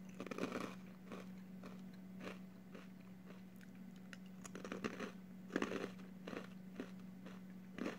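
A mouthful of crunchy Nongshim Honey Twist snack being bitten and chewed: irregular crunches, with louder clusters about half a second in and again around five to six seconds in.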